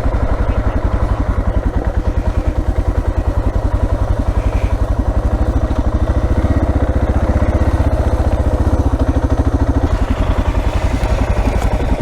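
Single-cylinder dual-sport motorcycle engine running steadily under way at low revs, its exhaust beats pulsing evenly.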